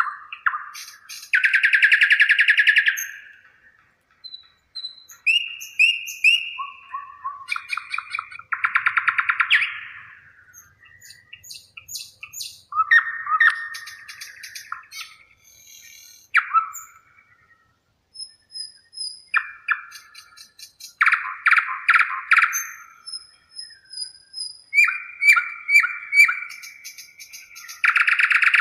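Songbirds singing: loud, rapid trilled phrases, about four of them, alternating with shorter clear whistled notes and chirps, with brief pauses between phrases.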